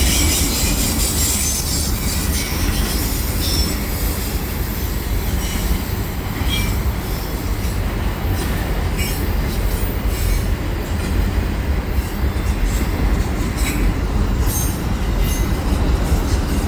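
Freight train's auto rack cars rolling steadily past on a curve. The wheels give a continuous low rumble, with high-pitched wheel squeal coming and going above it and an occasional click from the rail joints.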